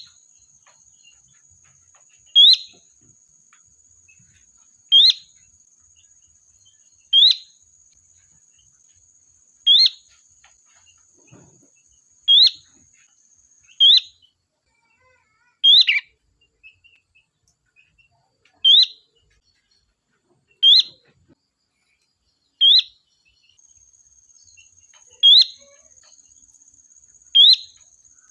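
Sooty-headed bulbul (kutilang) repeating one short rising call note about every two and a half seconds, about a dozen times: its contact call to the flock, used as a lure call.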